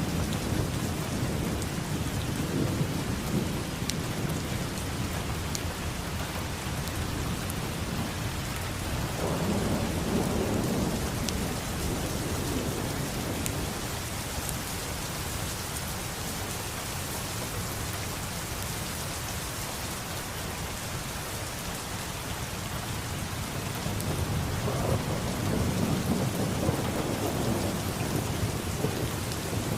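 Steady heavy rain with rolling thunder: low rumbles swell about a third of the way in and again near the end over the constant hiss of the rain.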